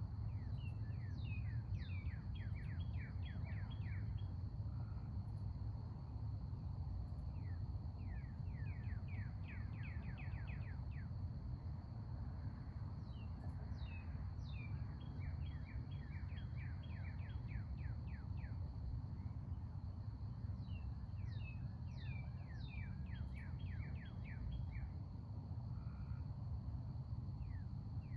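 Small birds chirping in quick runs of short downward-slurred notes, several runs a few seconds apart, over a steady low outdoor rumble.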